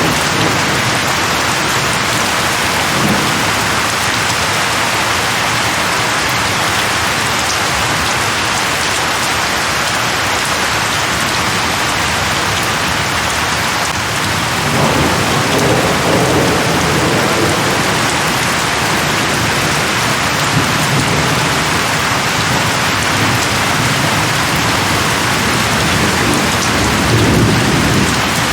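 Steady, heavy rain falling in a rainstorm, with low rolls of thunder swelling about halfway through and again near the end.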